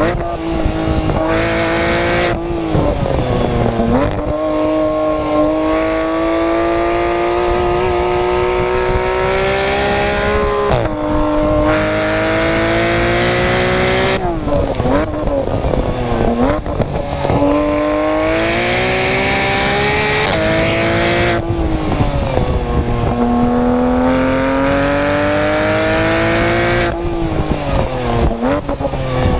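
Porsche 991 GT3 RS naturally aspirated flat-six engine and exhaust under hard track driving: the pitch climbs for several seconds at a time through the gears and falls sharply at each upshift. Twice the revs dip and waver in quick rev-matched downshifts under braking, about halfway through and again near the end.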